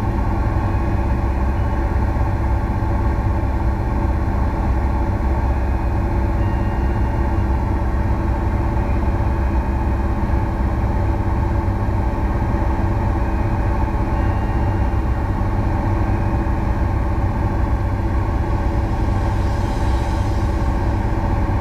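Cessna 172's piston engine and propeller droning steadily in the cabin during a descent on approach.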